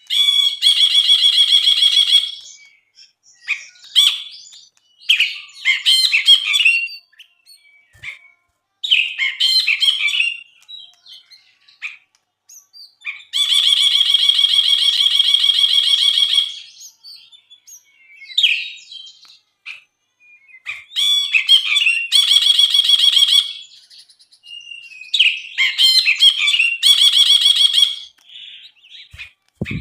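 Brinji, a bulbul, singing in bursts: long buzzy rattling trills of two to three seconds alternate with short, quick, varied chattering phrases.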